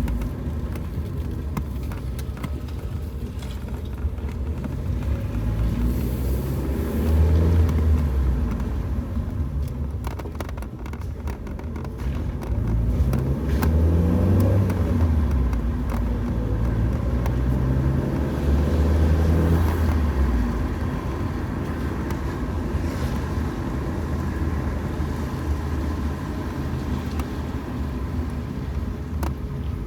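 A car driving on a wet road, its engine rising and falling in pitch several times as it accelerates and shifts, over steady tyre and road noise. Light ticks of rain are heard on the car throughout.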